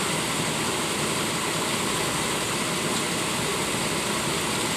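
A vehicle engine idling steadily, an even running noise with a fast, fine pulse in its low end.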